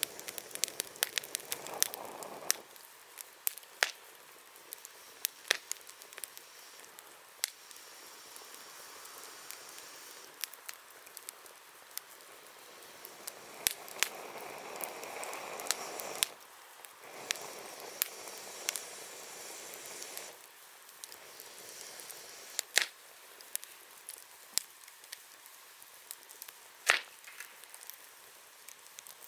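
Wood campfire crackling, with sharp pops and snaps scattered throughout. A soft hissing rush swells in the middle, and two louder pops come near the end.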